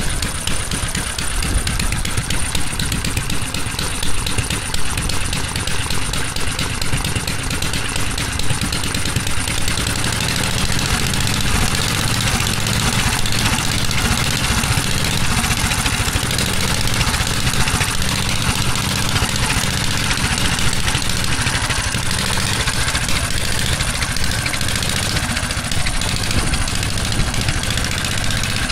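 Antique Flying Merkel motorcycle engine running at idle, a steady rapid train of firing pulses with a few louder beats about four to five seconds in.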